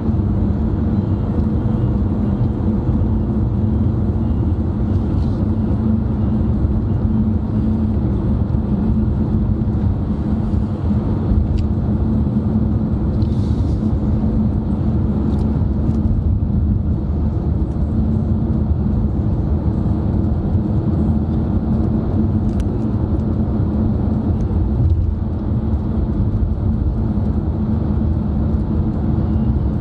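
Steady road rumble of a moving car heard from inside the cabin: tyre and engine noise with a constant low drone and no change in speed.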